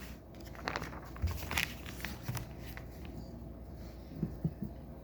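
Scattered light clicks and rustles of plastic Lego pieces being handled and fitted together during a build.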